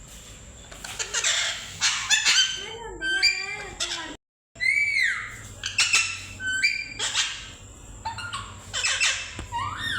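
Pet parrots calling and squawking in quick repeated short calls, many sliding up or down in pitch, with a brief break in the sound a little after four seconds in.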